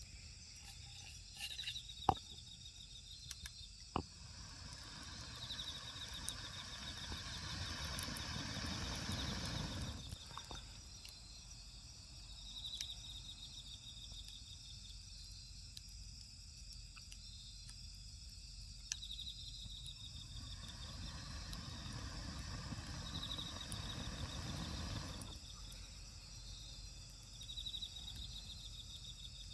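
Outdoor night ambience: an insect chirps in short, high, pulsed trills that repeat every few seconds, over a low noise that swells and fades twice. A couple of sharp clicks sound near the start.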